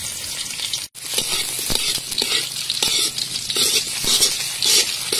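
Chopped shallots and garlic sizzling in hot oil in a wok, stirred, with scrapes and knocks of the utensil against the metal. The sound breaks off for an instant just before a second in.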